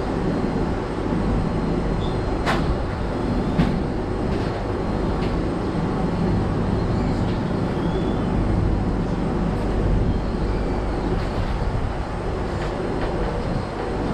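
Passenger train running on the rails: a steady rumble with a few sharp clanks at irregular intervals.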